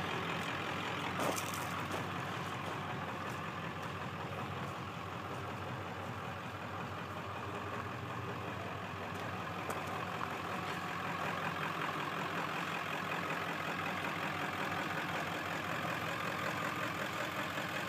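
Service truck's engine idling steadily, with a single short click about a second in.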